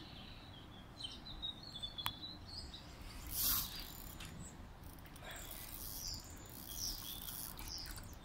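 Small birds chirping and calling over a light outdoor background, with a brief rushing whoosh about three and a half seconds in.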